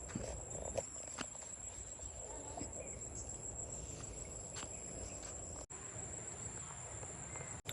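Insects chirring steadily in one continuous high-pitched tone, with a few faint ticks over a low background hiss.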